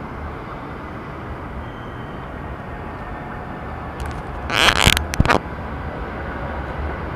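Steady low rumble of a busy train station platform with a train standing at it. About four and a half seconds in comes a short, loud hiss with a few sharp clicks around it.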